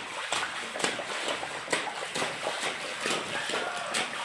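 A child splashing in rainwater puddles in rubber boots: a quick, irregular run of sharp splashes, about two a second, over a steady hiss of running water.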